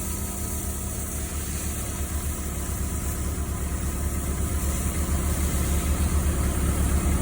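Wheel loader's diesel engine running steadily with a low, pulsing drone, gradually getting louder.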